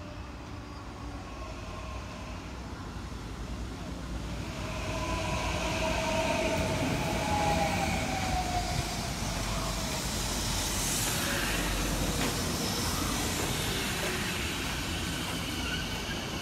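Sanyo Electric Railway commuter train pulling into the station: its wheels rumble on the rails, growing louder from about four seconds in. Over the rumble its electric traction motors give a whine that falls in pitch as the train slows.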